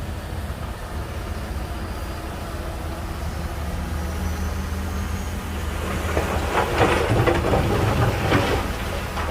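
Shantui DH17C2 bulldozer's diesel engine running steadily, with a burst of dense clattering and cracking about six seconds in that lasts a couple of seconds.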